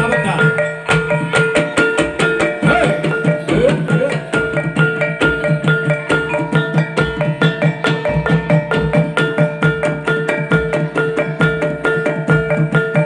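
Live accompaniment for a Topeng Ireng folk dance: fast, even percussion strokes over held ringing tones.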